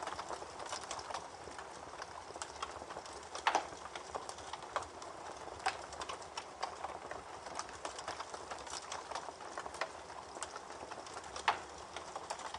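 Campfire crackling with irregular snaps and pops, two louder ones about three and a half seconds in and near the end, over the steady rush of a babbling creek.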